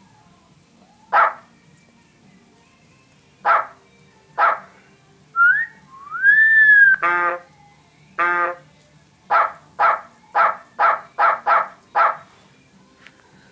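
A dog barking in short single barks, then a quick run of about eight barks near the end, with a sliding whistle-like tone and a longer pitched call in the middle.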